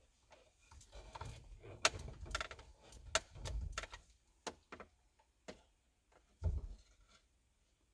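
Hand work on a truck's steering wheel: a run of sharp clicks and knocks of tools and parts being handled, then a dull thump about six and a half seconds in.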